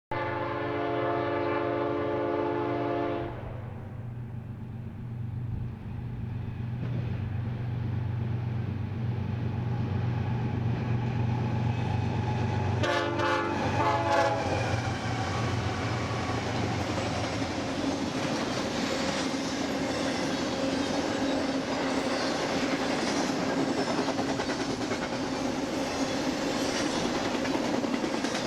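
BNSF diesel freight locomotive sounding its air horn in a chord for about three seconds, then a second, broken blast about 13 seconds in, over the low drone of the engines. After that comes the steady clatter of an intermodal train's steel wheels rolling over the rails as the cars go by.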